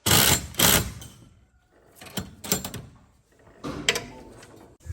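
Clattering and scraping of metal shop-door parts being handled and fitted: two loud bursts right at the start, then scattered clicks and rattles.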